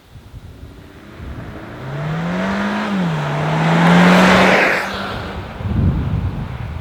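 Hyundai Tucson's 1.6-litre turbo-petrol four-cylinder accelerating hard. Its note rises, drops sharply at an upshift about three seconds in, then climbs again as the car passes loudly with a rush of tyre and wind noise, and fades away.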